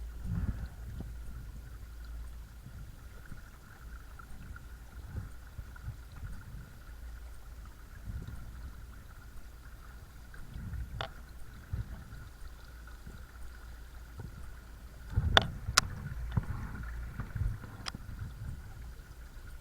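Watersnake T24 12-volt electric trolling motor running steadily with a thin, even whine, over a low rumble of water and wind on the microphone. There is a sharp knock about halfway through and three more near the end.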